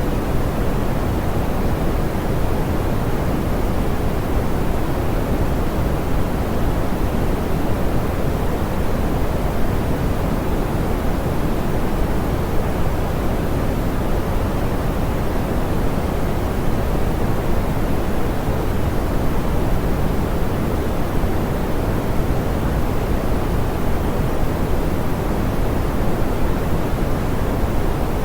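Steady synthetic pink noise, a soft, even hiss with most of its weight in the low end and the highs rolled off.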